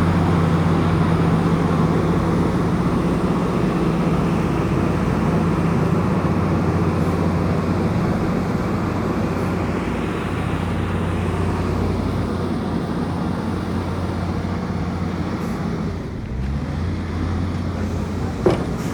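Komatsu bulldozer's diesel engine running steadily with a low, even drone. About sixteen seconds in the note dips briefly, then settles again. A single short sharp sound comes near the end.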